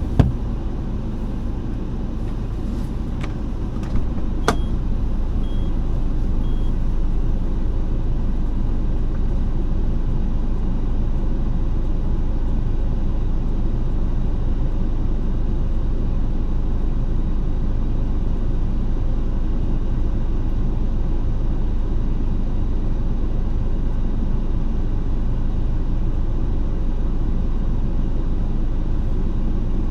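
Steady low rumble of a moving road vehicle, growing slightly louder about four seconds in. There is a sharp click near the start and another at about four seconds, followed by three short faint high beeps.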